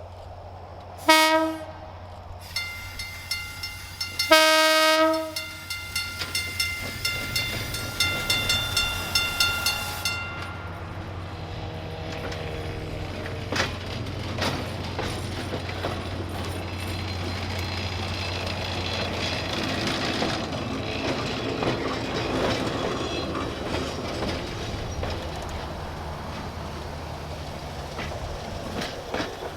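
East Troy Electric Railway dinner train sounding its horn, a short blast and then a longer one. A bell rings rapidly for several seconds, then the train rumbles past with wheels clacking over rail joints.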